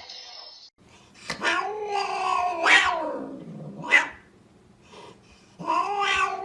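A cat yowling: a long, wavering drawn-out call about a second in, a short sharp cry around four seconds, and another long yowl starting near the end.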